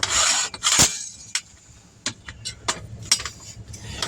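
Hand tire tools breaking a tire bead and working it off a steel wheel rim. A short scraping rush comes first, then a sharp metal clank just under a second in, then scattered lighter clicks and knocks.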